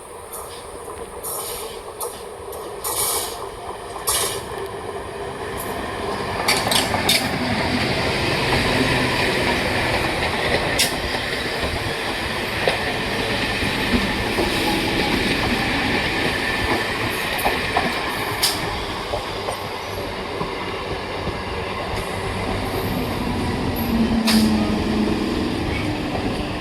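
Electric multiple unit (EMU) local train running past on a curve. Its rumble grows much louder about six seconds in and then stays steady, with irregular sharp clacks of the wheels over the rail joints.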